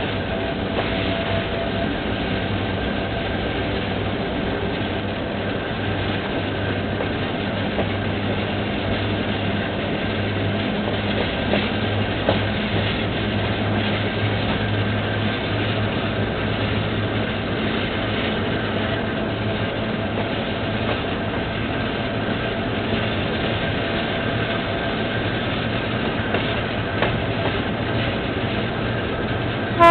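Diesel-hauled passenger train running, heard from aboard: a steady low drone from the General Motors GT-22 locomotive under the rumble of the wheels on the track, with a couple of sharp clicks about twelve seconds in.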